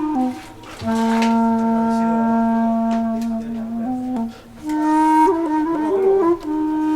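Background music: a solo flute-like wind instrument playing slow, long held notes with small ornamental turns in pitch, with audible breath at the start of each phrase.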